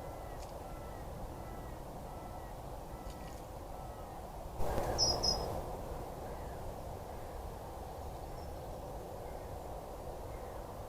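Steady hiss of a trail camera's outdoor recording, with a faint run of short repeated bird notes, about two a second, over the first few seconds. About halfway through comes a louder, brief bird call with a pair of high chirps.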